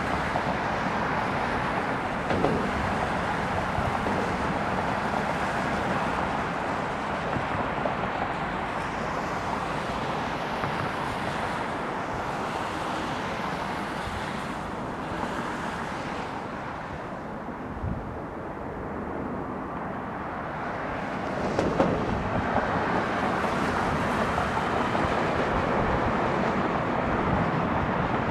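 Steady outdoor airport rush of jet airliner noise mixed with wind. It eases off briefly about two-thirds of the way through, then swells again, with a few faint knocks.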